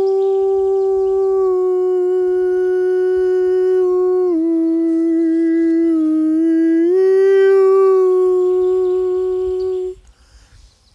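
A man singing long, held wordless notes: a steady tone that dips to a lower note in the middle, climbs back, and breaks off near the end for a breath. Faint bird chirps at the start.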